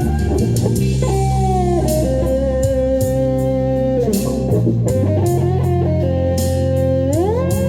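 Guitar lead played over a backing track with drums and bass, holding long notes and bending up in pitch about a second in and again near the end.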